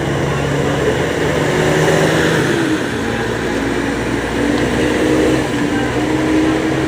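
Motor vehicle engine running while travelling; its note drops about two and a half seconds in, then holds steady.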